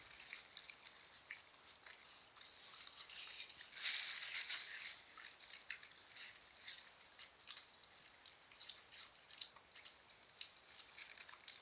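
Dog chewing watermelon: faint, irregular small crunches and clicks, with a louder crunching burst about four seconds in.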